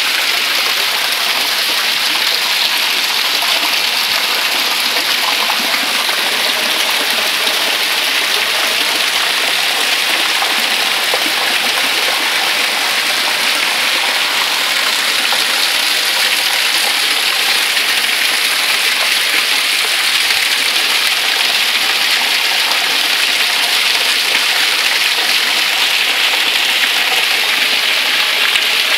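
Heavy rain pouring steadily, with runoff water rushing through a flooded cobbled street.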